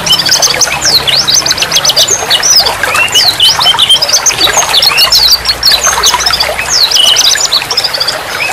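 Small songbirds chirping and twittering fast and continuously, many quick sharp calls overlapping, several in steep downward sweeps.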